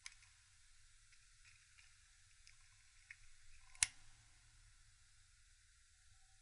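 A few faint small clicks of handling, then one sharp snap nearly four seconds in: side cutters cutting off the tail of a plastic cable tie.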